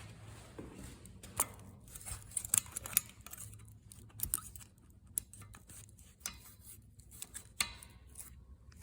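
Scattered light clicks and taps of tools and small parts being handled, over a faint steady low hum.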